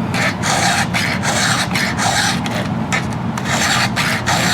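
Round file rasping across a chainsaw chain's cutter teeth by hand, in repeated strokes about two a second, sharpening a slightly dull chain.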